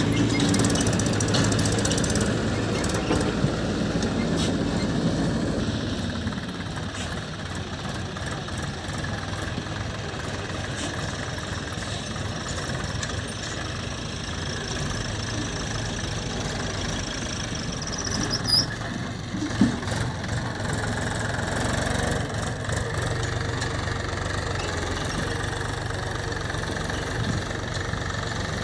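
Diesel engine of heavy machinery running steadily at low revs, a little louder for the first few seconds, with a couple of short knocks a little past the middle.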